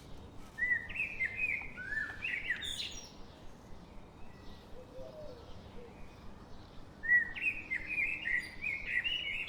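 A songbird singing two quick warbling phrases of chirping notes, the first about half a second in and the second near the end, over a steady background hiss.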